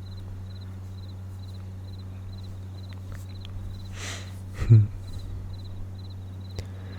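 Crickets chirping in short, evenly repeated trills over a low steady hum. About four seconds in there is a soft breath, then a brief low voiced sound, the loudest moment.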